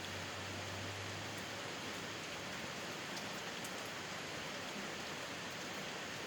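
Steady rain falling, an even hiss with no let-up. A low hum underneath stops about a second in, and a couple of faint drip ticks sound midway.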